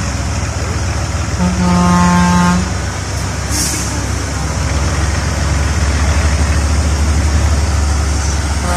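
A heavy truck's diesel engine running, with a horn sounding for about a second near the start and a brief hiss about halfway through; the engine then grows louder and pulses steadily as it works under load.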